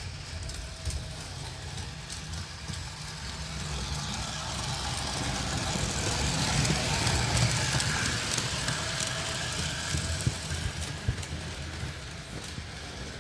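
O-scale model train running on its track, the motor's hum and the wheels' rattle and clicking growing louder as it passes close by about halfway through, then fading as it moves away.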